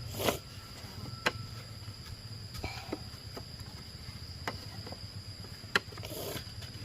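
Steady high-pitched drone of insects, with sharp knocks at irregular intervals about one to one and a half seconds apart, the loudest near the start and about six seconds in.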